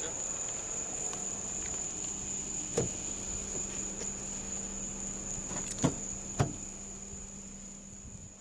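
A steady high-pitched drone of night insects, with three short clicks about three, six and six and a half seconds in. It fades away near the end.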